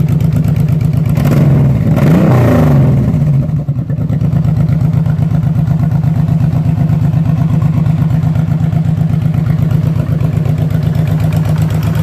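Honda VTX1800C's 1,795 cc liquid-cooled V-twin idling steadily, with one short blip of the throttle about a second in that rises in pitch and drops back to idle.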